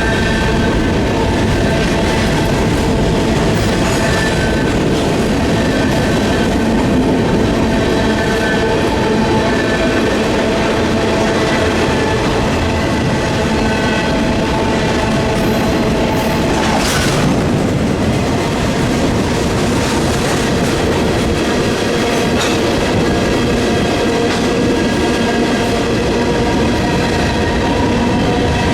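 Freight train cars rolling past, the wheels clacking over the rail with a steady metallic squeal of several tones. A short hiss sweeps through about halfway.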